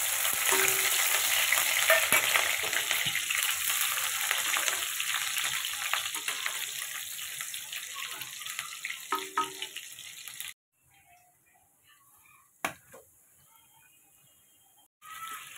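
Chopped green chillies sizzling in hot oil in a kadhai, stirred with a slotted spatula: a loud frying sizzle that slowly dies down over about ten seconds. The sizzle then cuts off suddenly, leaving a quiet stretch with one sharp click, and a softer hiss returns near the end.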